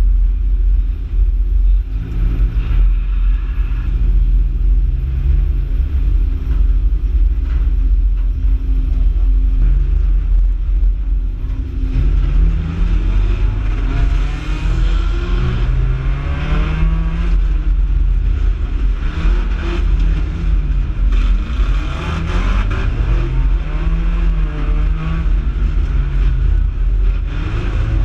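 Race car's engine heard from inside the cockpit, a heavy low rumble. About halfway through it starts revving up and falling off again every two to three seconds.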